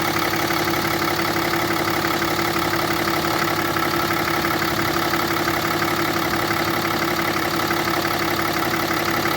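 Cummins 6.7-litre inline-six turbo diesel in a 2007 Ram 3500 idling steadily.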